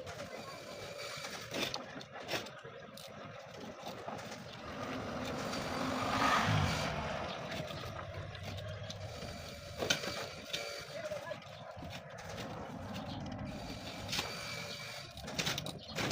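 A motor vehicle passing by, rising to its loudest about six seconds in and then fading, over steady background noise with a few sharp clicks.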